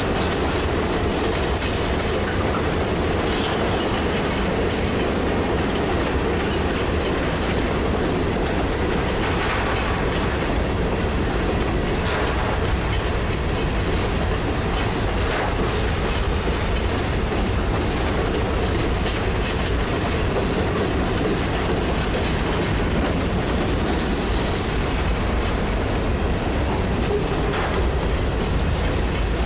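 Freight train of covered hopper cars rolling past close by: a steady rumble of steel wheels on rail, with irregular clacks from the wheels passing rail joints.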